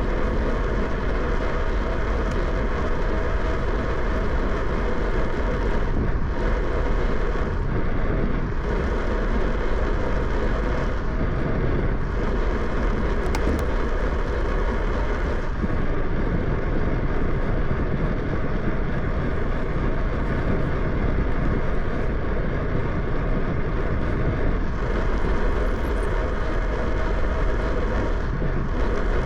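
Steady rushing wind noise on the microphone of a moving bicycle, with no breaks or separate events.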